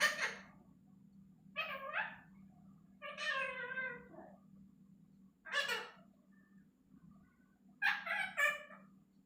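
Pet parrot calling: four short, pitched calls a second or two apart, the second one longer and falling in pitch at its end.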